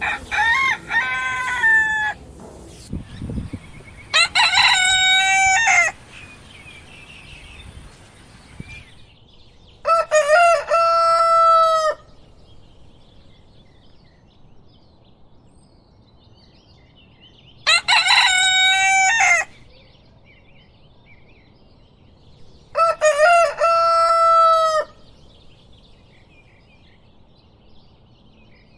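Rooster crowing five times, each crow about two seconds long and several seconds apart, with faint bird chirps between the crows.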